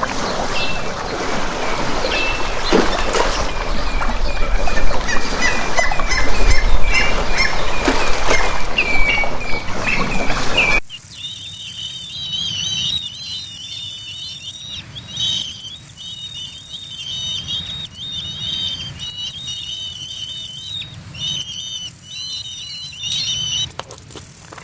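Birds chirping, many short calls over loud, rumbling background noise. About eleven seconds in it cuts to a quieter scene with a repeated warbling call that comes in phrases, over a high hiss that switches on and off.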